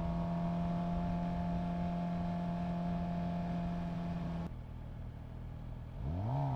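Suzuki GSX-R750 inline-four motorcycle engine running at a steady note. The throttle is shut suddenly about four and a half seconds in, and after a short lull the revs rise smoothly and hold steady again near the end.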